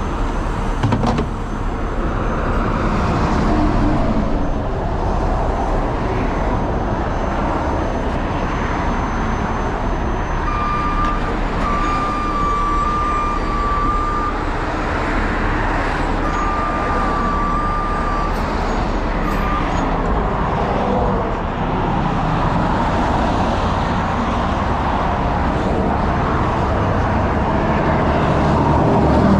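Steady vehicle noise, with a thin high whine that comes twice near the middle.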